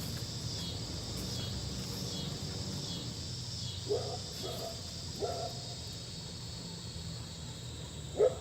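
Insects trilling in a steady, pulsing chorus, with three short barking calls about four to five seconds in.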